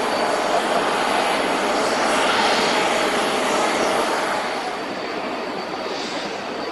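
Boeing 777 freighter's GE90 turbofan engines: loud jet noise with a thin high whine, easing off about four and a half seconds in.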